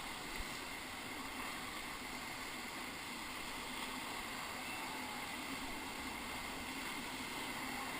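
Steady, even rush of whitewater rapids.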